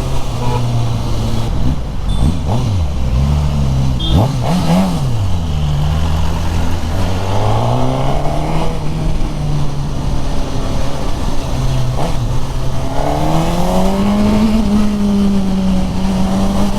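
Suzuki Katana's K5-derived inline-four engine running under way: its pitch swings sharply down and up a few times about two to five seconds in, holds steady, then climbs about thirteen seconds in as the bike picks up speed.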